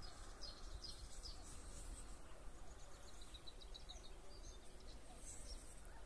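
Faint outdoor ambience of small birds chirping: scattered short high chirps, with a quick run of them about three seconds in, over a low steady rumble of wind.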